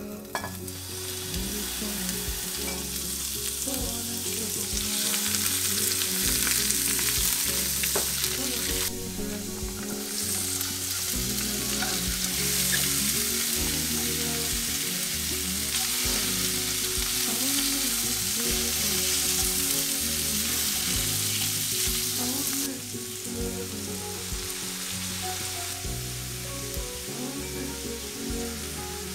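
Julienned carrots and lotus root sizzling in hot sesame oil in a ceramic-coated frying pan as they are tossed in and stirred. The sizzle shifts abruptly about nine seconds in and drops back near twenty-three seconds.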